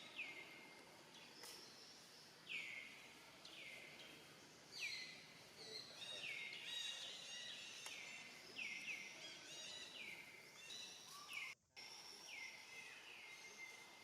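Faint outdoor bird calls: a repeated call that slides down in pitch about once a second, with quicker chirps mixed in partway through, over a low background hiss.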